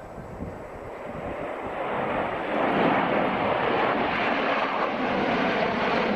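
Aircraft engine noise, a rushing sound that grows louder over the first few seconds and then holds steady.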